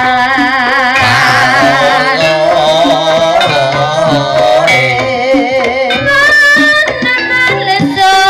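Ebeg accompaniment music: a high, wavering sung melody over hand-drum (kendang) strokes and pitched percussion, played live and loud.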